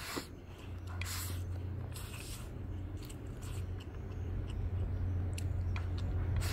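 Close-up eating sounds of a person biting and chewing mouthfuls of spicy stir-fried pork intestines with rice: a few short wet smacks. A steady low hum runs underneath from about a second in.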